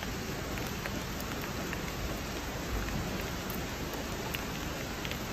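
Steady rainfall hissing, with many scattered taps of individual drops landing close by.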